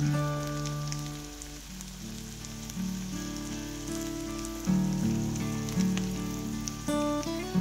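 Fish, potatoes and vegetables simmering in sauce in a pan, a steady sizzle with small crackles. Background music with sustained, changing notes plays underneath.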